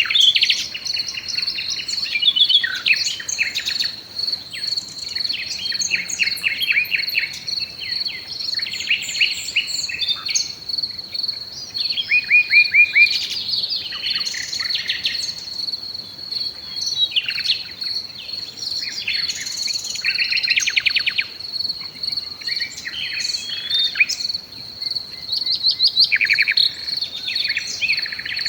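Several songbirds singing and calling over one another in quick, varied phrases, above a continuous high-pitched insect trill.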